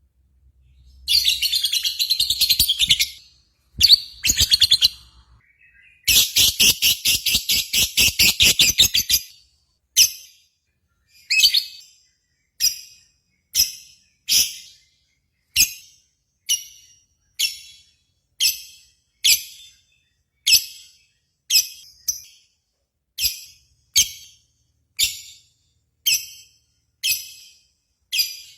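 Lovebird song: bursts of rapid, high-pitched chattering through the first nine seconds, then short sharp chirps repeated about once a second.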